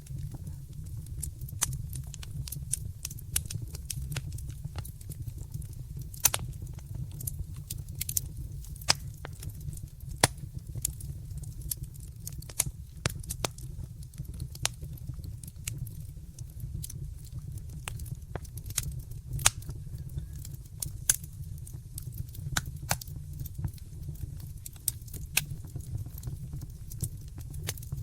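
Wood fire crackling in a fireplace: irregular sharp pops and snaps over a steady low rumble of flames, with a few louder pops.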